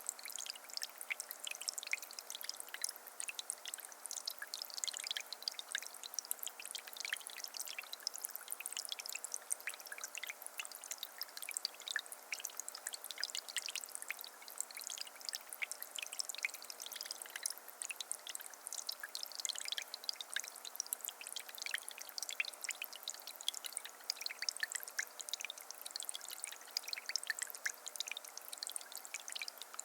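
Tabletop water fountain running: a steady trickle of water spilling over a hanging ridged slate piece and onto decorative rocks, with many small splashes and drips.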